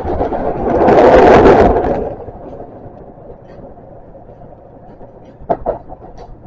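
An oncoming train passing close by on the next track: a loud rush of wheel and air noise that swells and fades over about a second and a half, heard from inside a moving metro train. After it, the train's own steady running noise, with a couple of sharp clicks about five and a half seconds in.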